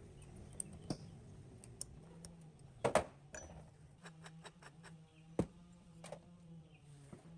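A series of light clicks and taps, with a louder double knock just under three seconds in and a quick run of ticks a little later, over a faint steady hum.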